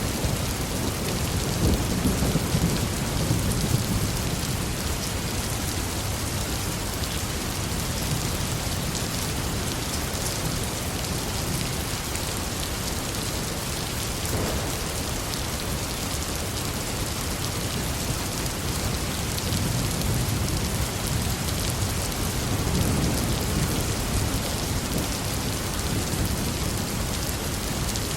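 Heavy rain falling steadily, with low rolls of thunder rumbling about two seconds in and again in the last third.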